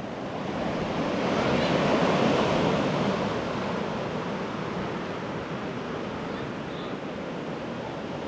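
Rough ocean surf washing up a sandy beach close by, swelling to its loudest about two seconds in and then settling into a steady wash.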